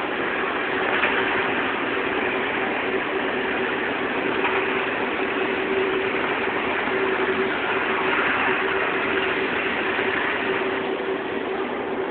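Automatic fabric spreading machine running, a steady mechanical whir with a constant hum under it.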